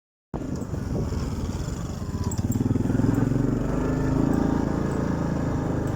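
Orion motorcycle engine running with a fast, even firing beat, revving up a little between about two and a half and four and a half seconds in.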